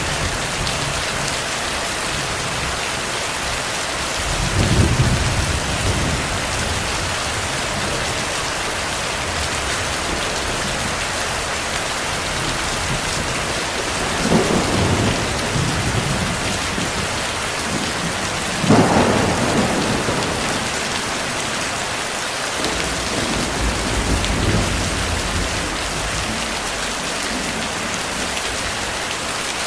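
Steady heavy rain hissing, with several low rumbles of distant thunder swelling up about 5, 15 and 19 seconds in, the last the loudest.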